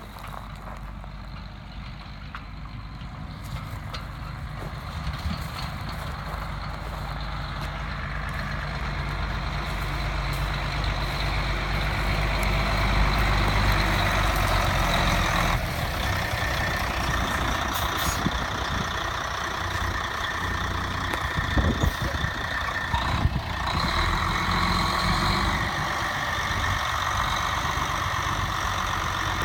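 The diesel engine of a 1993 International 2674 grain truck running. It grows louder over the first dozen seconds, then runs steadily.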